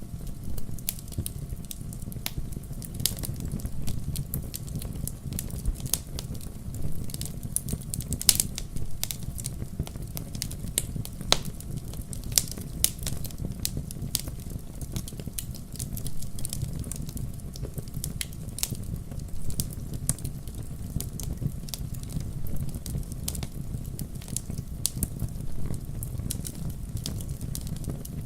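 Wood fire burning in a fireplace: a steady low rumble of the flames with frequent irregular sharp crackles and pops, a few louder snaps standing out.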